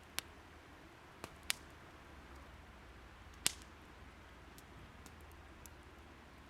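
Wood fire crackling: four sharp pops, the loudest about three and a half seconds in, with fainter ticks between, over a faint steady hiss.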